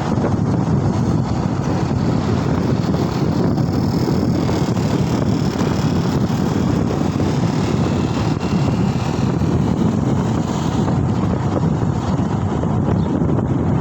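Steady wind rushing over the microphone while riding, mixed with road and traffic noise.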